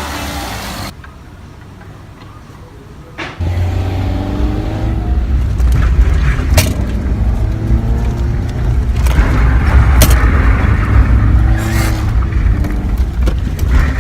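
A car being driven hard, its engine revving up and down with a steady low rumble from about three seconds in. Music fades out in the first second.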